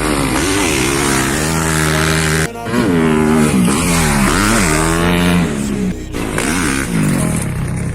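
Motocross bike engine revving hard, its pitch climbing and falling over and over with the throttle. The engine note drops out briefly twice, about two and a half and six seconds in.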